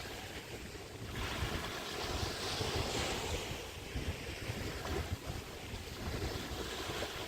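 Small waves breaking and washing on a bay beach, the hiss swelling and easing every couple of seconds, with wind rumbling on the microphone.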